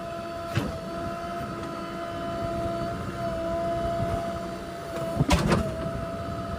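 Heavy construction machine's diesel engine running steadily with a whine. There is a single knock about half a second in, and a short rattle of clanks about five seconds in.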